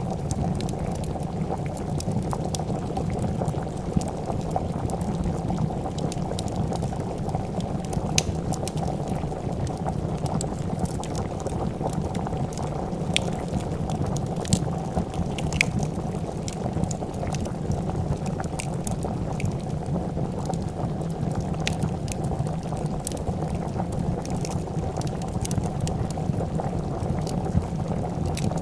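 Pot of soup bubbling at a steady rolling boil, with scattered small pops and crackles of a wood fire over it.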